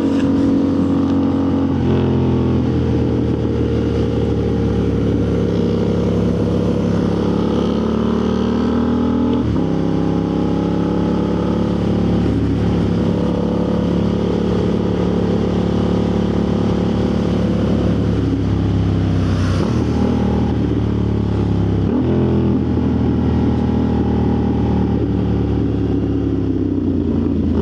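Motorcycle engine running under way, its pitch climbing and then stepping or dropping several times as it changes gear, with wind noise around it.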